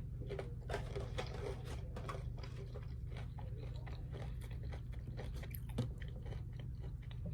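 Close-up chewing and crunching of food, with many small, irregular crisp clicks and one sharper click about six seconds in, over a steady low hum.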